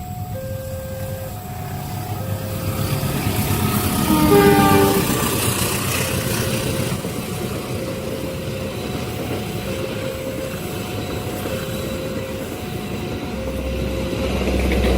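Railway level-crossing alarm sounding two alternating tones, about one a second. About four seconds in, a train horn blows with its pitch falling as the locomotive passes, followed by the steady noise of the train running through the crossing.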